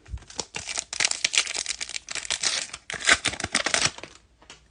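A foil trading-card pack wrapper torn open and crinkled in the hands, a dense crackling that runs for about four seconds with a brief pause near the three-second mark.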